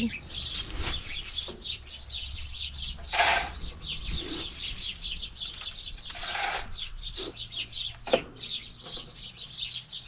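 Many small birds chirping rapidly and continuously. Two louder noisy sounds break in around three and six seconds in, and a sharp knock comes about eight seconds in.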